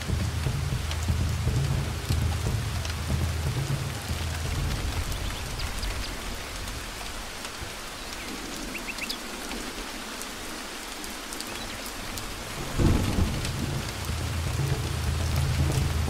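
Heavy rain falling steadily, with thunder rumbling low underneath. The rumble dies away about halfway through, then a sudden loud thunderclap comes about three-quarters of the way in and the rumbling returns.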